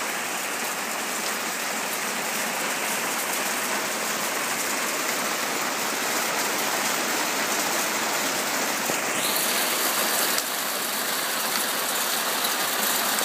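Hail falling: a dense, steady patter of hailstones striking surfaces.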